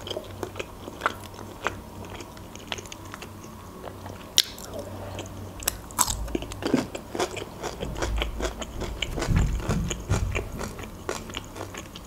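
Close-miked chewing and mouth sounds of a person eating grilled chicken pulled off by hand, with many small clicks and wet crackles. The chewing gets louder about six seconds in and eases off after about ten seconds.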